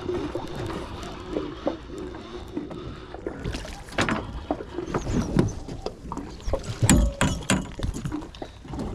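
On board a fishing boat at sea: a steady low hum with water noise, then from about a third of the way in a busy run of knocks, clatters and a few heavy thumps on deck.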